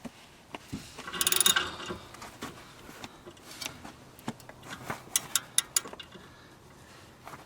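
Ratchet wrench clicking in short strokes as it turns the puller that presses the outer tie rod end's ball stud out, with some scraping and clinking of metal tools. There is a rougher clatter about a second in and a run of sharp clicks later on.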